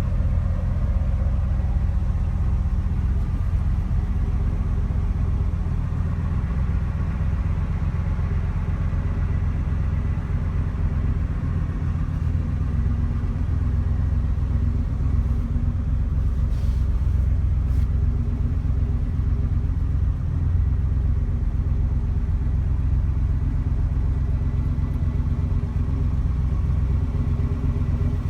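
1974 Chevrolet Malibu engine idling steadily, a deep, even note with no revving.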